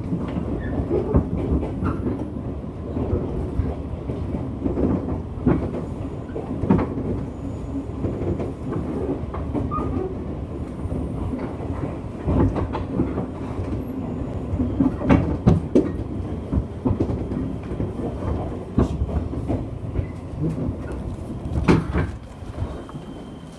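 JR West 201 series electric commuter train running, heard from on board: a steady low rumble with wheels clicking over rail joints. One sharp click comes near the end, and then the sound gets quieter.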